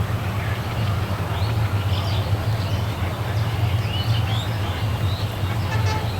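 Steady low rumble of a passing express train, with birds chirping over it.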